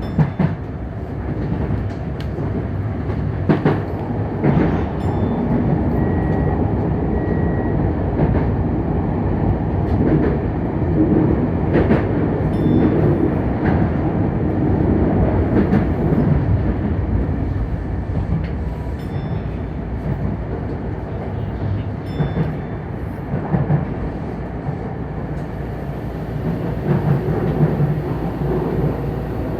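Electric commuter train running at speed, with a steady rumble and scattered sharp clicks of the wheels over rail joints, heard from inside the front car.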